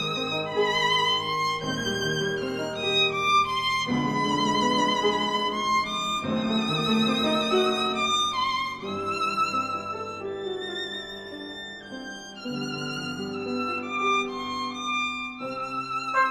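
Background music: a violin melody played with vibrato over a lower accompaniment.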